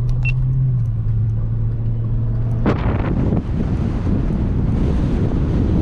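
A vehicle's steady low engine hum, then about two and a half seconds in an abrupt change to low rumbling wind noise buffeting the camera's microphone.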